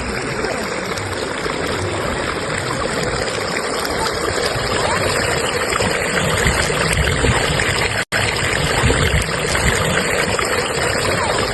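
Fast-flowing stream current running steadily, with a split-second dropout in the sound about eight seconds in.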